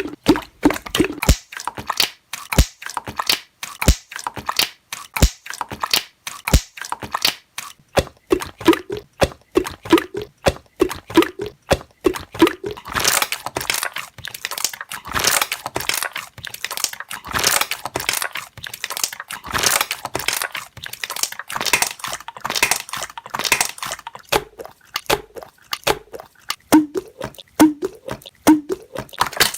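Slime being pressed and worked by hand, popping trapped air bubbles in a quick, steady run of wet clicks and pops, with a denser stretch of crackling through the middle.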